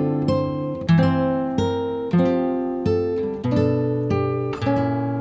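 Background music on acoustic guitar: plucked chords that ring and fade, a new chord about every half second to second.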